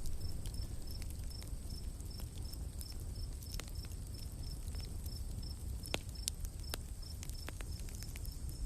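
Campfire crackling with scattered sharp pops over a steady low rumble, while an insect, likely a cricket, chirps in a steady series of short high chirps, about three a second.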